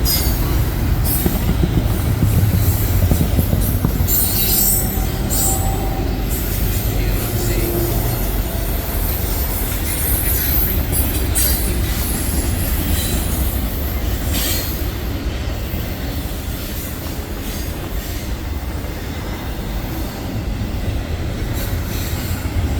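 Freight train cars rolling past with a steady heavy rumble, with brief high-pitched wheel squeals now and then, strongest about 4 to 6 seconds in.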